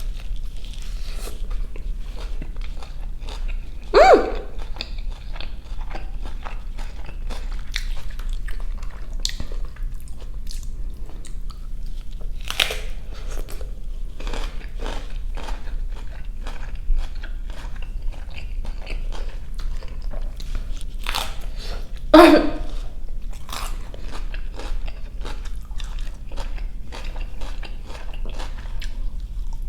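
A person biting and chewing a beef jianbing, a Chinese egg-and-flour crepe wrap: a steady run of small crunches and chewing clicks, with two louder mouth noises about four seconds in and again near twenty-two seconds.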